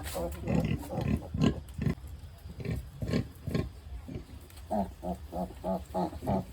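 Pigs grunting, a sow with her piglets: short irregular grunts, then, about three-quarters of the way in, a steady run of short low grunts, about three a second.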